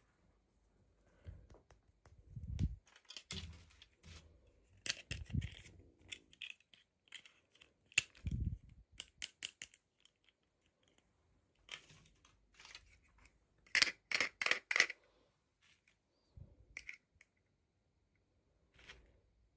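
Hands unboxing small plastic toys: a series of sharp plastic clicks and rustles with a few soft thumps, and a quick run of louder clicks about two-thirds of the way through.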